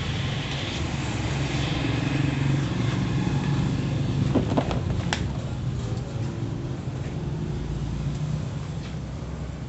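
Car engine running steadily with a low hum, with a few sharp clicks about halfway through.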